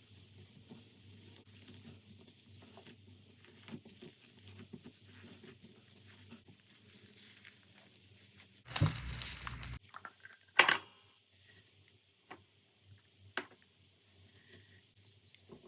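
Slime being handled, with faint crackling and crinkling, a loud squelching burst about nine seconds in, then a few sharp pops.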